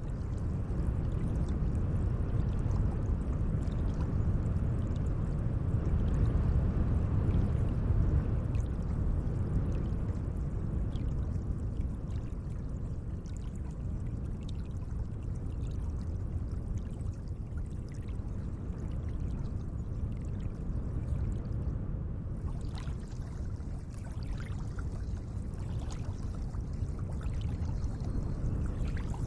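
Gentle lake water moving: a steady low wash with small splashes and drips scattered through it.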